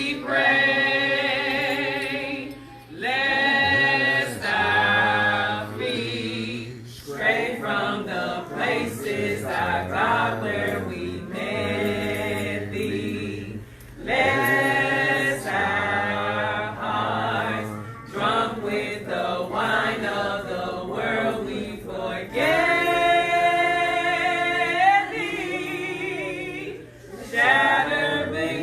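A group of people singing together in held, drawn-out phrases with short breaks between them.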